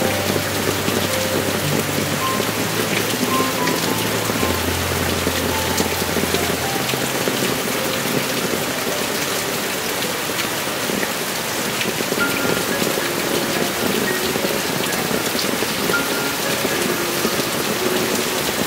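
Heavy monsoon rain falling steadily, a dense even patter. Soft scattered musical notes sound faintly underneath, with low held notes in the first several seconds.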